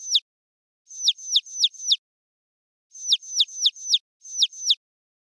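High-pitched, bird-like chirping. Each chirp is a short note that drops sharply in pitch. The chirps come in quick runs of four, about four a second, with gaps of roughly a second between runs, and the last run is a pair.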